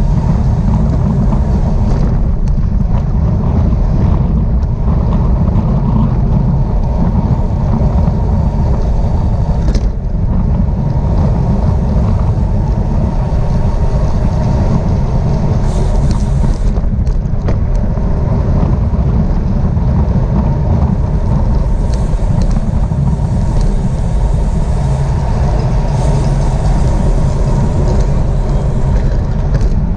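Loud, steady low wind rumble buffeting the microphone of a camera moving at bicycle-racing speed.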